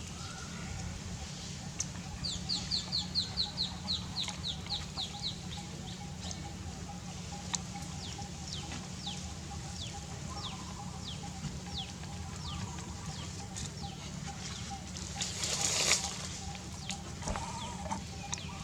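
Small birds chirping: a quick run of short, high, falling chirps, about four a second, then scattered single chirps. A brief rustling burst comes near the end.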